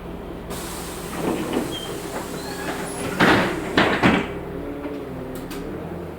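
LiAZ 6213.65 bus's doors working at a stop: a hiss of air starts about half a second in, then several loud knocks about three to four seconds in as the door leaves move and shut. The bus's engine idles underneath.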